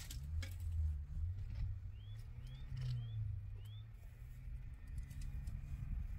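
A steady low hum that shifts pitch in steps, with a few sharp knocks. In the middle a bird gives four short rising chirps.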